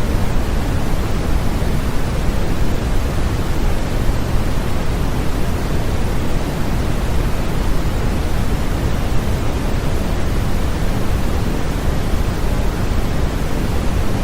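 Sleep-aid white noise for infants: a steady, unchanging hiss, deeper and stronger in the low end than in the highs.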